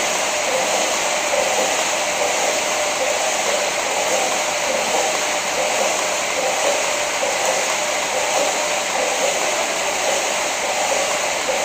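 KayakPro paddle ergometer's air-resistance flywheel whirring steadily as it is paddled.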